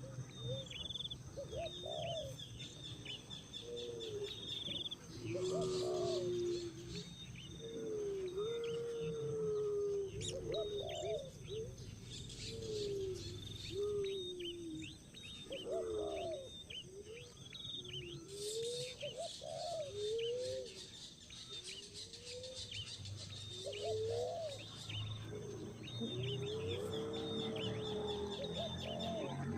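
Birds calling: rapid runs of high chirps over lower wavering calls that recur every second or two.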